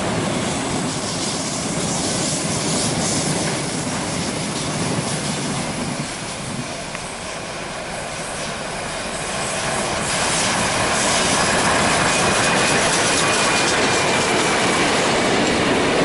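A Tangara electric suburban train runs past, then a steam-hauled train of heritage carriages behind locomotives 3526 and 5917 rolls by on the next track, louder from about ten seconds in.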